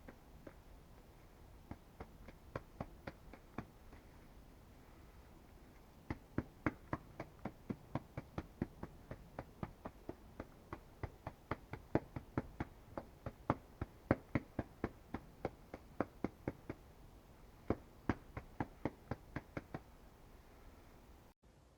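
A rapid series of short, sharp taps, about three or four a second, in runs broken by brief pauses.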